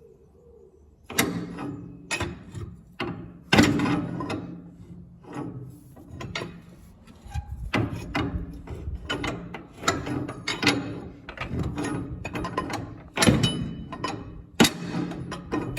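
Irregular metallic clicks, knocks and clinks of hand tools and small metal parts being worked on a tractor's diesel injection pump, starting about a second in.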